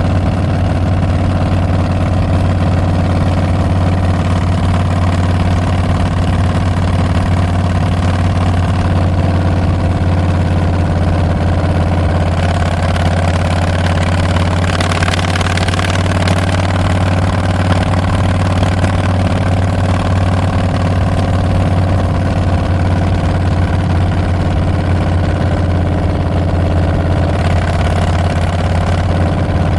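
Harley-Davidson Milwaukee-Eight 114 V-twin running through Tabs Performance slip-on mufflers with Zombie baffles, its deep exhaust note holding steady. A brief rush of noise comes in about halfway through.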